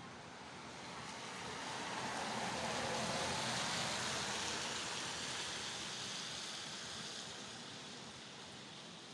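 Steady rain hiss, with a broad rushing sound that swells to a peak about three seconds in and fades away over the next several seconds.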